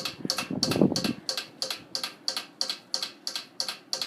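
1987 Halsey 52-inch ceiling fan running on high, with a rapid, even ticking of about six clicks a second: the blades striking screws as they turn.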